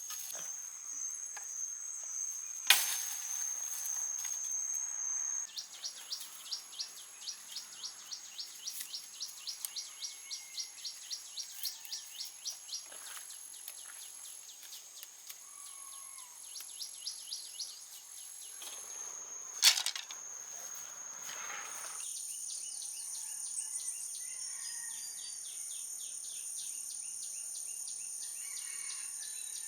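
Insects trilling and chirping in a chorus: a steady high-pitched trill runs under trains of rapid, evenly pulsed chirps that stop and start again. Two sharp knocks, about 3 seconds in and about 20 seconds in, are the loudest sounds.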